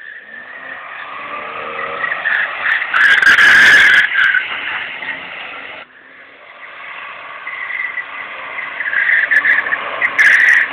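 A car drifting: engine revving and tyres squealing, building to a loud peak about three seconds in. It then cuts off abruptly and swells again to a second loud peak near the end.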